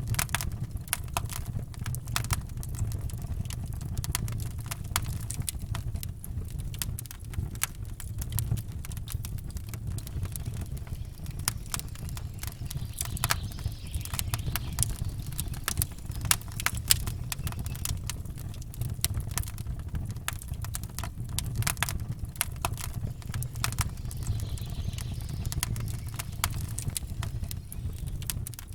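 Campfire burning, with dense irregular crackles and pops of burning wood over a steady low rumble.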